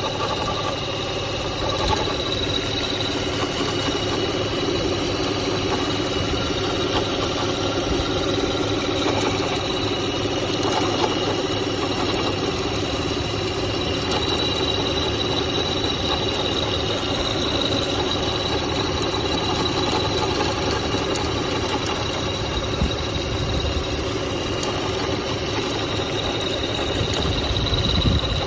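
2003 Toyota Highlander V6 engine idling steadily in the engine bay, with a steady high-pitched whine over the running. The owner is chasing an intermittent rattle near the serpentine belt.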